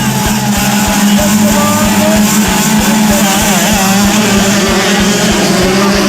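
Several motocross bikes' engines running together: a steady loud drone, with higher engine notes rising and falling as riders work the throttle.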